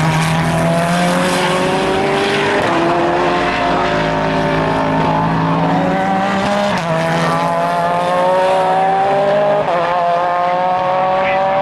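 Race car engine accelerating hard. The pitch climbs steadily and drops sharply at three upshifts, about two and a half, seven and ten seconds in.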